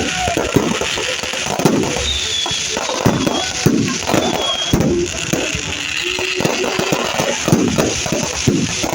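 Large São João bonfire burning, with dense, irregular crackling and sharp pops.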